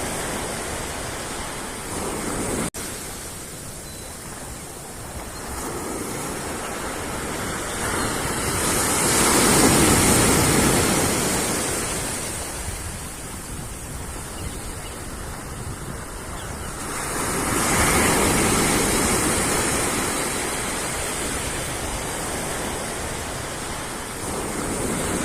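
Sea waves washing up a beach. The surf swells loudest twice, about ten seconds in and again about eighteen seconds in.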